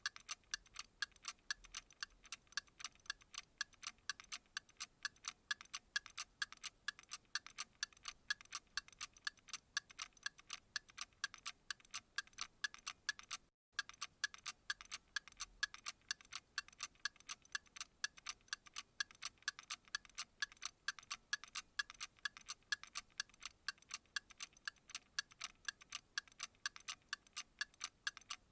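Steady, fast, evenly spaced clock ticking, thin and sharp with little low end, broken by a momentary gap about halfway through.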